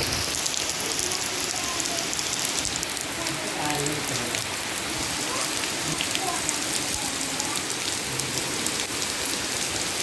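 Steady rain falling: an even hiss dotted with the sharp ticks of individual drops.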